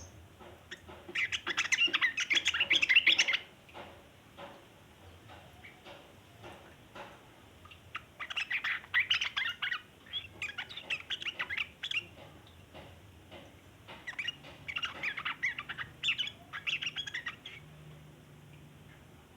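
Yellow-vented bulbul (trucukan) giving long bouts of rapid, dense chattering ('ngeriwik'), three bursts of several seconds each with scattered single chips between them.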